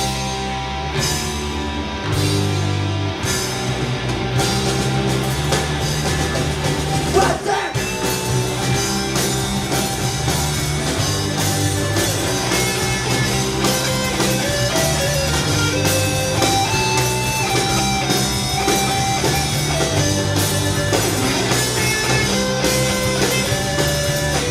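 Rock band playing live with electric guitar, bass and drum kit keeping a steady beat.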